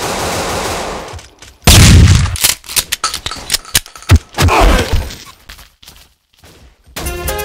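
A hiss, then a loud bang and a run of sharp cracks like gunfire, with a falling whistle among them. Music begins near the end.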